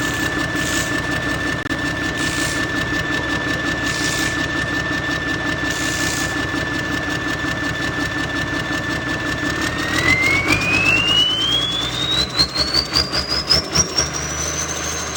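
Engine running with a steady high whistle over a pulsing low drone. From about ten seconds in, the whistle climbs steadily in pitch and the level starts to swell and dip as the engine revs.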